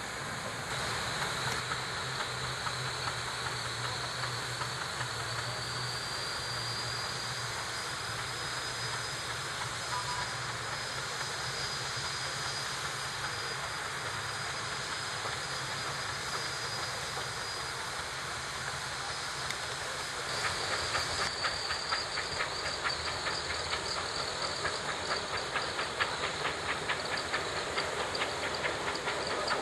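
Steam traction engine hissing steadily with a thin high tone. About two-thirds of the way through, a fast, even beat of exhaust strokes sets in and gets louder as the engine works.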